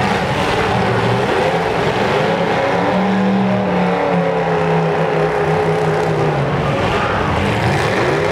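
Demolition derby cars' engines running loud and revving, their pitch rising and falling as the cars push and spin on the dirt track.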